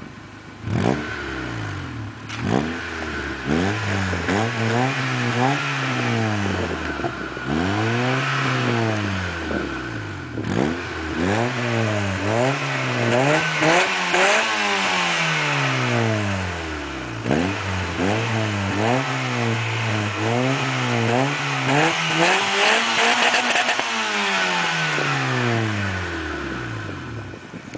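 Honda Civic's D16Y3 1.6-litre four-cylinder engine, breathing through a Magnaflow 14821 muffler, revved over and over. Short blips alternate with longer held revs, each rising and falling back toward idle.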